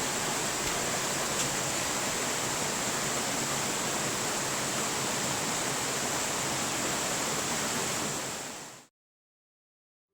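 Steady rushing of flowing water, like a waterfall or a fast stream, with a faint high steady hiss over it; it fades out near the end.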